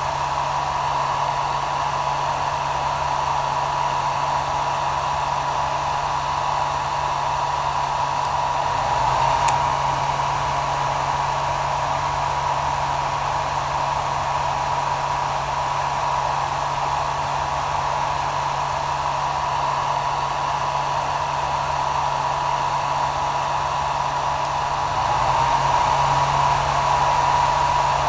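Hair dryer running steadily: an even rushing blow with a constant whine from its motor and fan. It swells slightly louder for a moment about nine seconds in and again for a few seconds near the end.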